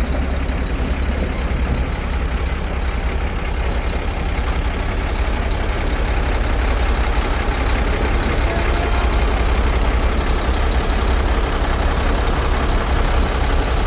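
Heavy vehicle engine running steadily with a deep rumble, a little louder in the second half.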